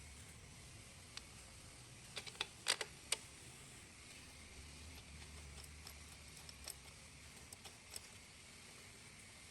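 A few light, sharp clicks and taps, with a quick cluster of them about two to three seconds in and scattered single ticks later, over a faint steady hiss.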